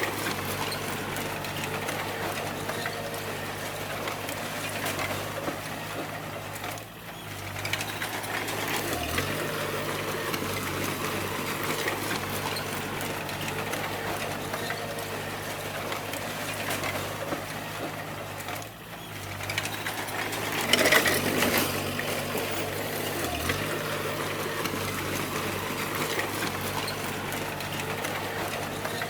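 Bulldozer's diesel engine running steadily with a busy mechanical clatter. The sound drops away briefly twice, and a louder burst of noise comes about two-thirds of the way through.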